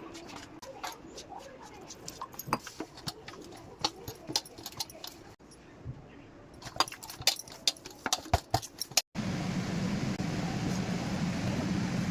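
Sharp clinks and taps of kitchen utensils against metal or glass, then, after an abrupt cut about nine seconds in, a steady hissing noise.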